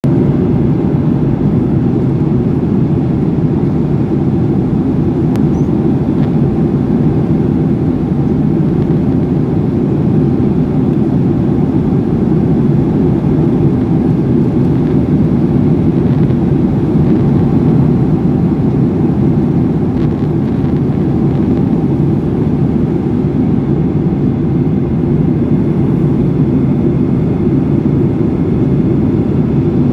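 Steady drone of an aeroplane cabin in flight, engine and airflow noise heard from inside the plane, unchanging throughout.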